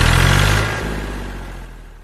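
Engine running steadily, then fading out over about two seconds.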